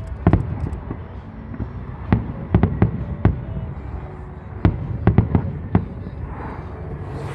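Fireworks bursting overhead: about nine sharp, irregular bangs, with clusters around two to three seconds in and again around five seconds in, over a steady low rumble.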